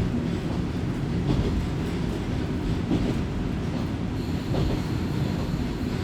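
Running noise inside a Kominato Railway diesel railcar under way: a steady low rumble of engine and wheels on rail. A faint, high, steady whine comes in about four seconds in.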